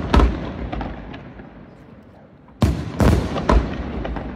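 Aerial firework shells bursting: one sharp bang just after the start, then three more in quick succession about two and a half to three and a half seconds in, each trailing off in a rumbling echo.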